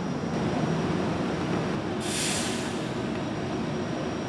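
Train running steadily, with a short hiss of air about two seconds in.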